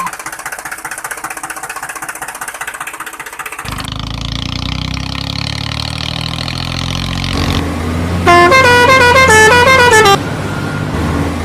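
Truck engine running, rattly at first and then a deeper steady run. About eight seconds in, a loud multi-note musical horn plays a short tune for about two seconds.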